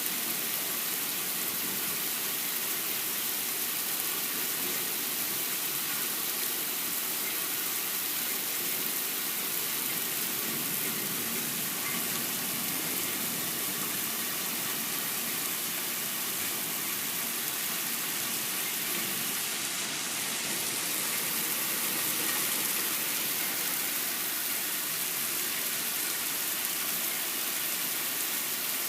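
Heavy rain in a thunderstorm: a steady downpour, an even hiss with no thunderclaps.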